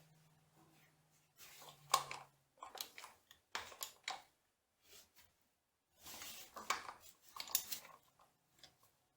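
Metal tools and machine parts clinking and scraping in short irregular bursts, with a faint steady hum in the first couple of seconds.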